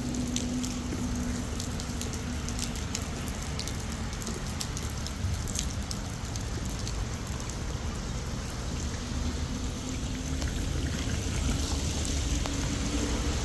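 Heavy rain falling steadily: a continuous hiss with many sharp individual drop ticks, and a faint low hum underneath at the start and again near the end.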